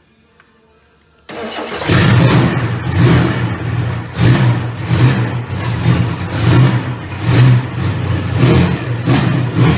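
Chevrolet 400's carbureted engine catching and starting about a second in after its dry fuel supply was primed, then running loud and uneven, its note surging about twice a second.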